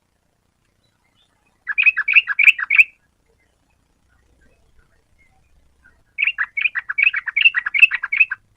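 Yellow-vented bulbul (trucukan) song: two bursts of quick, bubbling chattering notes, a short phrase about two seconds in and a longer one from about six seconds in.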